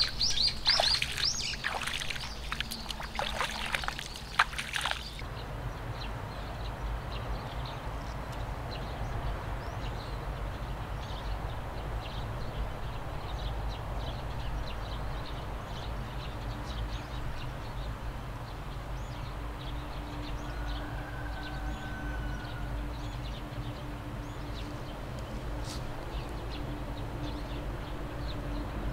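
Outdoor ambience with birds chirping, busiest in the first five seconds, then a steady faint background hiss with only scattered faint chirps.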